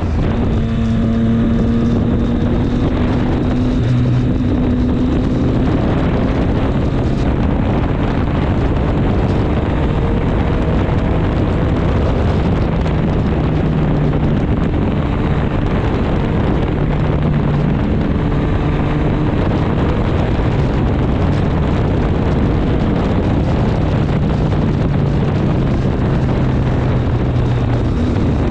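Triumph Street Triple 765 S's inline three-cylinder engine running on the move, its note holding and shifting slightly in pitch several times, with heavy wind rush over the microphone.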